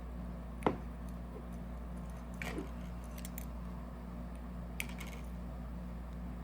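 A few small clicks and taps of metal parts and tools being handled while reassembling a paintball marker, with one sharp click about a second in, over a steady low hum.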